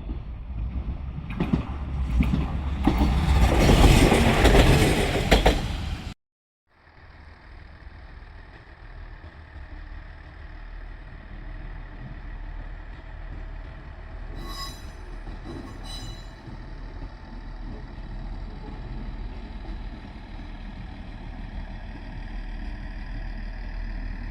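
Train passing close by, its rushing noise building to a peak a few seconds in and then cutting off abruptly. After the cut comes a train's quieter, steady running noise with a low hum and two short high squeals about halfway through.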